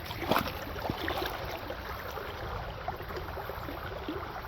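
Water sloshing and splashing, with a few short knocks, the loudest shortly after the start.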